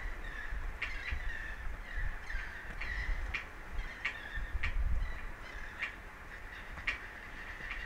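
Seabirds calling again and again, about eleven short calls in eight seconds, over a steady low rumble of wind on the microphone.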